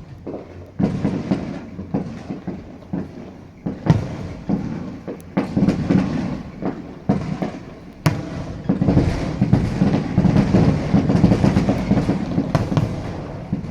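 Distant aerial fireworks bursting: a string of separate booms, building about two-thirds of the way through into a dense barrage of overlapping bangs and crackle that fades near the end.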